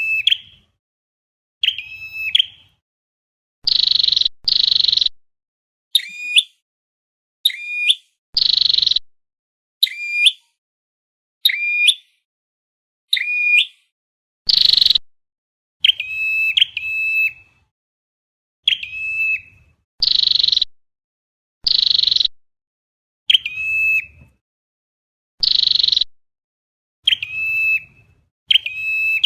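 Red-headed flowerpecker calls repeated over and over as a trapping lure: short harsh buzzy notes alternate with clear ringing notes that drop sharply and then hold, roughly one call every second.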